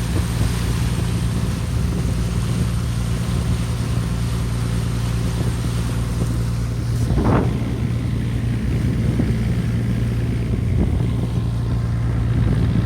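Wind blowing on the microphone over a steady low mechanical drone, with a brief louder rush about seven seconds in.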